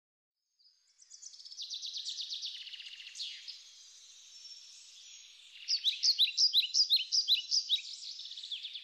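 Songbirds singing: rapid trills start about half a second in, then a run of loud, sharp down-slurred chirps at about four a second takes over in the second half.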